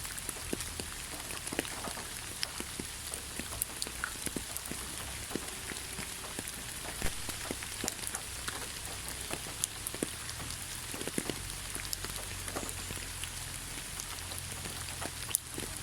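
Steady rain falling in a pine forest: a constant hiss with many separate drops ticking close by, one sharper drop hit near the end.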